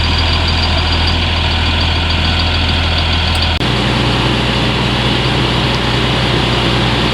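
Heavy diesel engine of a slurry-tanker tractor rig running steadily. About three and a half seconds in, its drone changes abruptly to a different steady hum.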